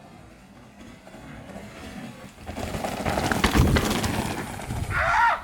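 A mountain bike coming down over rock: tyres crunching on dirt and stone with sharp clattering knocks, building from about two and a half seconds in and loudest a second later. A spectator starts shouting near the end.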